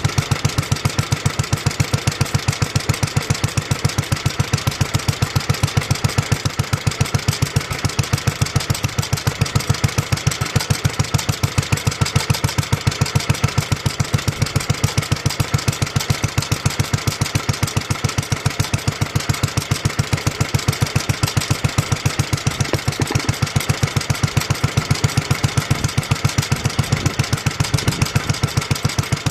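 1954 Petter A1 single-cylinder stationary engine running steadily, each firing stroke heard as an even, regular beat.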